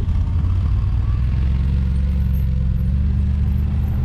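Side-by-side UTV engine running steadily at an even pitch while the machine drives along a trail.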